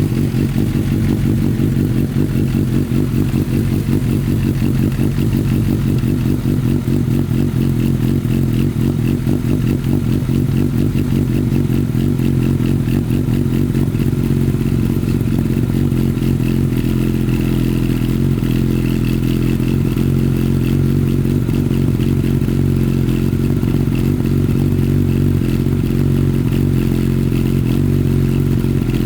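Suzuki GSX-S1000's inline-four engine with a Yoshimura R77 slip-on exhaust idling steadily on a cold start.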